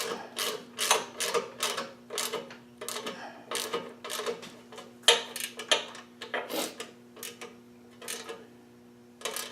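Hand tools working on a mini bike's metal parts: a run of irregular metallic clicks and clinks, thinning out near the end, over a steady low hum.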